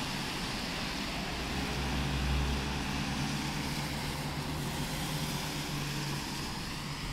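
Road traffic: a motor vehicle's engine hum over a steady wash of traffic noise, swelling about two seconds in and then easing off.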